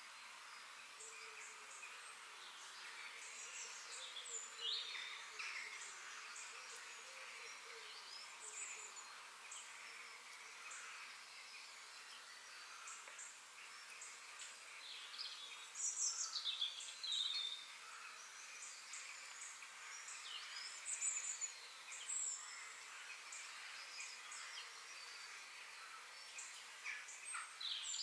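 Forest birds singing and chirping: many short whistles, trills and chirps from several birds over a steady high hiss. The busiest, loudest flurries come about halfway through and again near the end.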